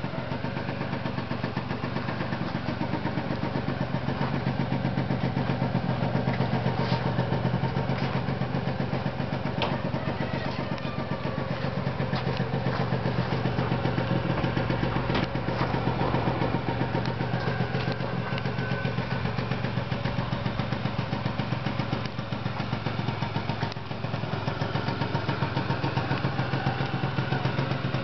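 PGO Tornado scooter engine idling steadily, with a fast even exhaust pulse.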